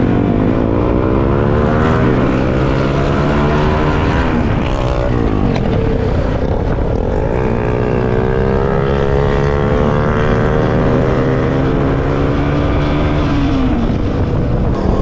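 Motorcycle engines running on the road, their pitch rising and falling as they accelerate and shift, with more than one engine heard at once over steady wind rush on the microphone.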